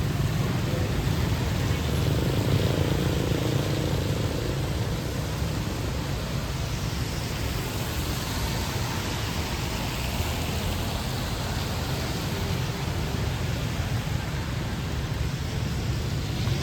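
Steady rainy city street ambience: a constant low traffic rumble under an even hiss of rain.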